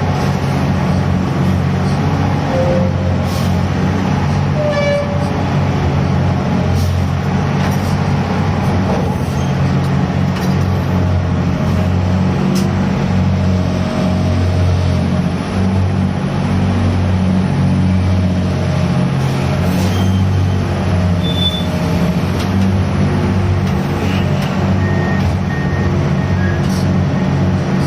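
Gut ship's diesel-driven grab crane running steadily under load during cargo discharge, with occasional faint knocks and clanks.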